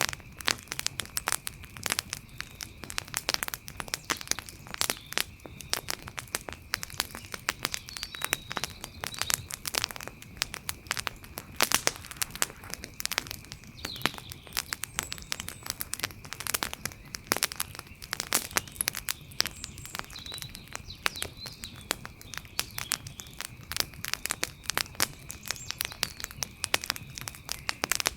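Wood fire crackling, with frequent irregular sharp pops and snaps over a soft steady hiss, and a faint steady high-pitched drone underneath.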